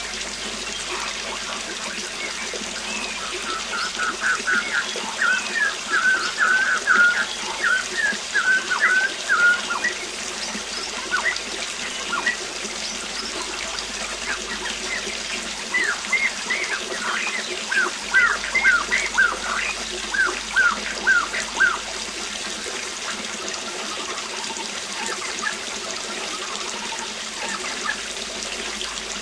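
Waterfall's steady rushing water with birds singing over it in two bouts of quick repeated chirps, the first from about 3 to 10 seconds in and the second from about 16 to 22 seconds in.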